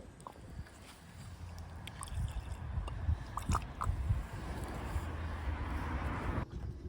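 Petrol being poured into a motorcycle cylinder head's intake ports to test the valves for leaks: liquid squishing and gurgling, with a few small clicks and knocks from handling, cutting off abruptly near the end.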